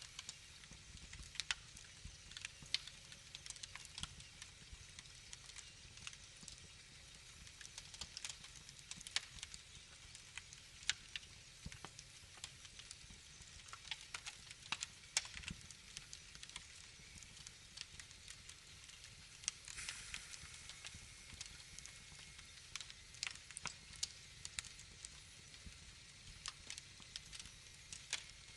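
Wood fire in a fireplace crackling: irregular snaps and pops over a faint hiss, with a short hiss about twenty seconds in.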